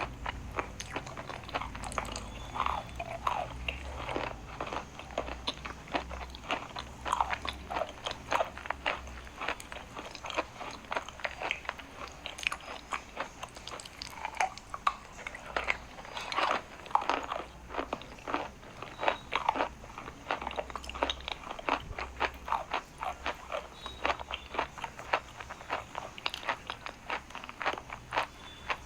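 Close-up crunching and chewing of dry chalk: many sharp, brittle crunches in quick, irregular succession.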